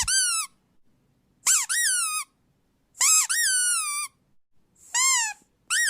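Dog's squeaky toy squeezed five times in a row, each squeak a high pitch that rises and then falls. The last squeak, near the end, is drawn out longer.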